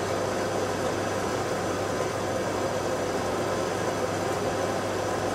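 IKEA RENLIG IWM60 washing machine filling with water for its first rinse: a steady rush of water coming in over a low steady hum, the drum not turning.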